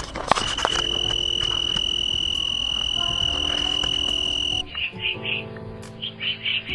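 A high insect trill held steady for about four and a half seconds, then breaking into quick repeated chirps at the same pitch.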